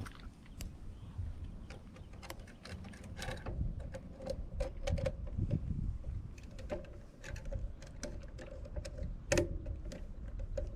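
Mountain bike rattling and clicking as it rolls over a rough dirt trail, with low wind rumble on the microphone.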